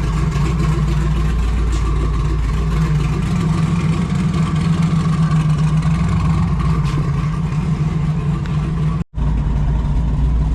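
Car engine running steadily while under way, a deep even drone with no revving. The sound drops out suddenly for an instant about nine seconds in.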